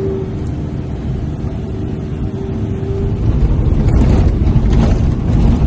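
Nissan Pathfinder driven hard through deep, soft sand: the engine runs under heavy load with a steady whine. About three seconds in it turns to a louder, rougher rumble with rattling as the vehicle pushes on through the sand.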